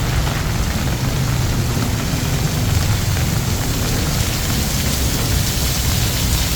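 Heavy rain falling steadily on a street, an even hiss with a strong low rumble underneath.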